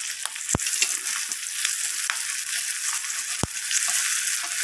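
Fresh-cut okra sizzling in hot oil in a cast-iron kadai just after going into the pan, a steady frying hiss. Two sharp pops come through, about half a second in and again near three and a half seconds.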